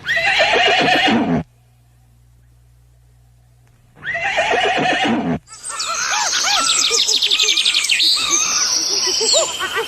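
A horse whinnying twice, each a falling call about a second and a half long, a few seconds apart. From about halfway through, a different recording takes over: a dense chorus of many overlapping short chirping calls.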